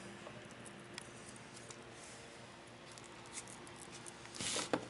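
Faint room hum with a few light clicks of small parts being handled, and a brief louder scrape or clatter near the end.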